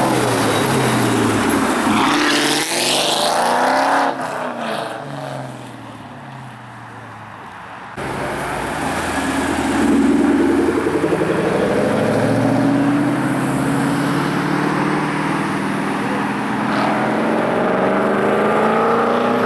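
Muscle car engines revving and accelerating hard, the engine note gliding up and down. It drops to a quieter stretch about four seconds in; from about eight seconds an engine accelerates with its pitch climbing steadily over several seconds.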